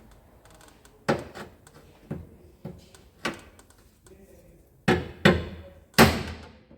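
Irregular hammer blows, about eight, on the crash-bent sheet-metal edge around a car's tail light opening, being knocked back into shape so the tail light fits. The last few blows are the loudest, and the final one rings briefly.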